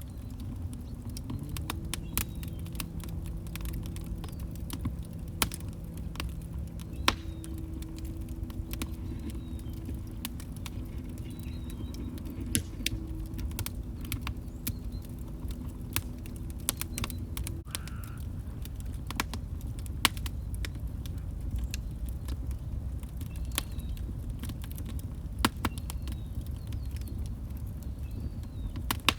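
Wood log fire crackling: irregular sharp pops and snaps over a low rumble of burning. A faint low hum runs beneath it until a little past halfway, where it stops suddenly.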